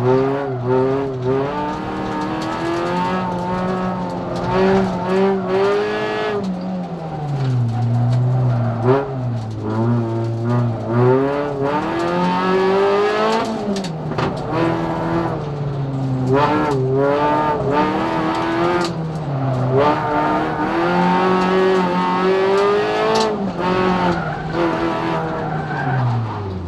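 A racing vehicle's engine running hard. Its pitch repeatedly climbs and then drops back in steps, like acceleration through the gears and lifting off.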